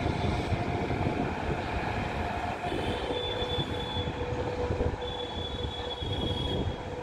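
Freight wagons of a BCNA covered-wagon train rolling past behind a WAG-9 electric locomotive: a steady rumble of wheels on rail. A high-pitched wheel squeal comes in twice, about three seconds in and again about five seconds in.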